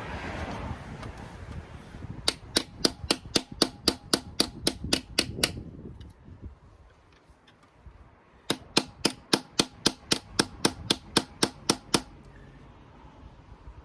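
Two quick runs of sharp hammer taps on metal, about five a second, each run lasting about three seconds, with a pause of a few seconds between them.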